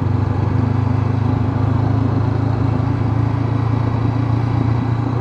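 Honda CB500X's parallel-twin engine running at a steady speed as the motorcycle is ridden, with an even engine note over a constant hiss.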